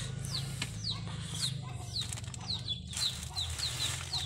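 A bird chirping over and over in short falling notes, about three a second, over a steady low hum. The plastic bag covering a coffee cutting rustles briefly as it is pulled off.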